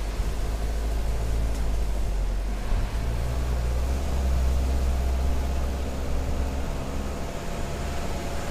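Jeep Cherokee XJ engine running under load as the vehicle climbs a dirt track: a steady low drone.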